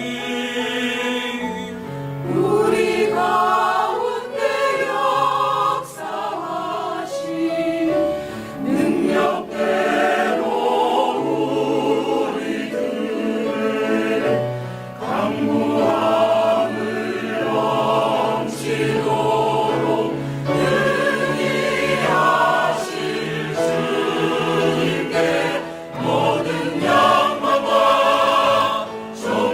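Church choir singing a Korean hymn, several voices in harmony on sustained notes.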